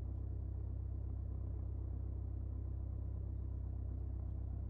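Mooney M20J's four-cylinder Lycoming IO-360 engine and propeller running steadily at low power, heard as a constant low drone inside the cockpit.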